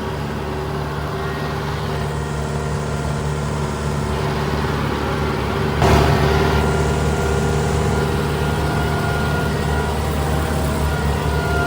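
Diesel tractor engine running steadily under load with a batwing rotary mower cutting, heard from inside the cab. About six seconds in there is a brief louder rush before it settles back.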